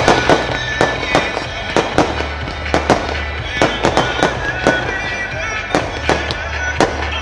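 Firework shells bursting over and over, sharp bangs coming irregularly and often in quick clusters, over a pyromusical's soundtrack with a steady bass line.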